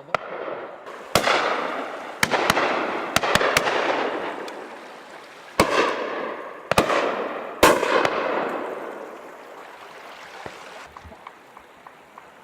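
Shotguns firing Eley Hawk Zenith cartridges at driven pheasants: about nine shots from several guns in the first eight seconds, some in quick succession. Each shot rolls away in a long echo down the valley, dying out over the last few seconds.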